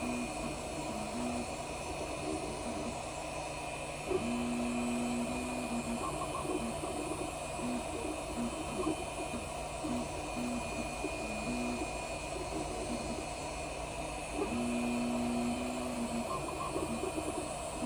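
3D printer running a print: cooling fans make a steady hiss while the stepper motors whine in short pitched notes as the print head moves, with a longer held note about four seconds in and again near the end.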